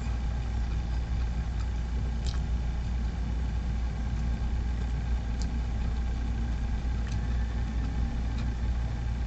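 A steady low mechanical hum, like an engine idling, with a few faint soft clicks while a mouthful of steak sandwich is chewed.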